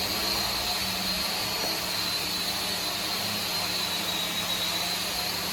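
Woodworking machinery running steadily: a continuous high whine over a broad noise with a low hum underneath.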